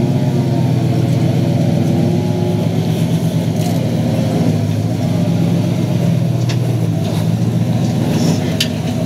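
Tow truck's engine working under load as it reverses up a steep rock climb, its pitch rising and falling with the throttle, with a few sharp clicks near the end.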